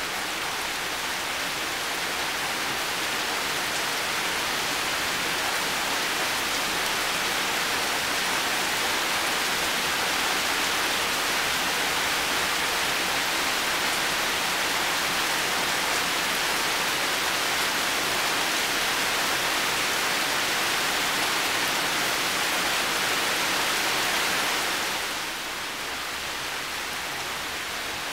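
Heavy rain falling steadily, a dense even hiss that swells slightly and then drops a little near the end.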